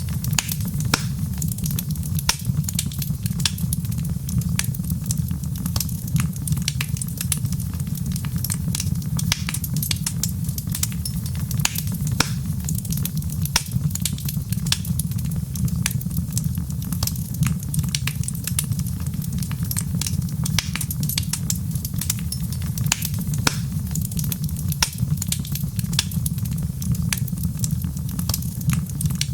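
Wood fire crackling: many sharp irregular pops and snaps over a steady low rumble.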